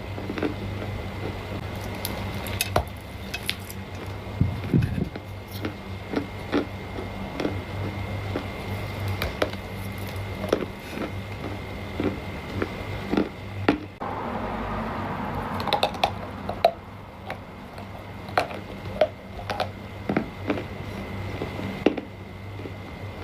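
Chunks of dry clay crunching and cracking: irregular sharp clicks and snaps, often several a second.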